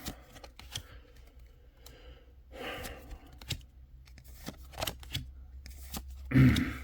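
Light handling noises of cards and packaging: scattered soft clicks and short rustles, with a brief breathy voice sound near the end.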